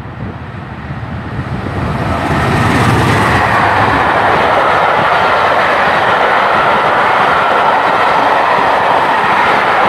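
Diesel-hauled charter train, a Class 67 locomotive at one end, passing through the station. It grows louder over the first couple of seconds, then holds as a steady loud rush of wheels on rail with clickety-clack from the coaches.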